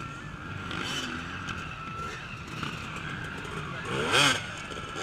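Off-road racing motorcycles running on the course, their engines revving and changing pitch, with one bike revving hard and loud close by about four seconds in.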